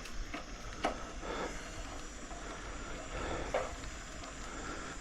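A cyclist breathing hard close to the microphone while pedalling a bicycle, in soft recurring breaths, with two short clicks from the bike, about a second in and past three and a half seconds.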